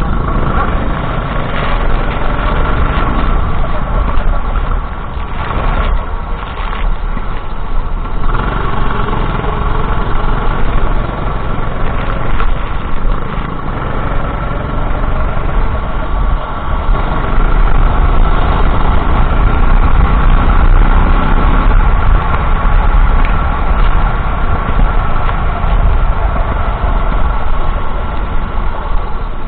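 Racing go-kart engine running hard on track, its pitch and loudness rising and falling with the throttle, over a heavy low rumble.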